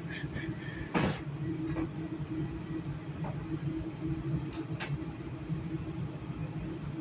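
Steady low rumble and hum inside a Metrolink commuter train's passenger car, with a sharp knock about a second in and a few fainter clicks later on.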